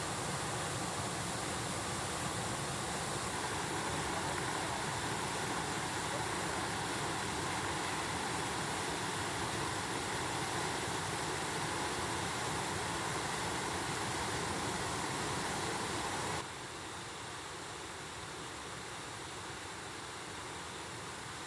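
Steady rushing of a mountain stream's flowing water. About sixteen seconds in it drops suddenly to a softer rush.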